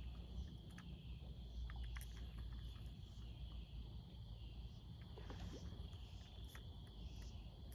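Evening insect chorus, likely crickets or katydids, trilling steadily high over a low rumble, with a few faint scattered clicks.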